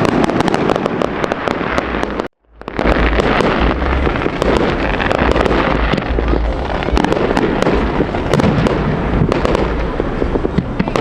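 Fireworks going off in rapid succession: a dense run of crackles and bangs over deep booms, with a brief complete gap a little after two seconds in.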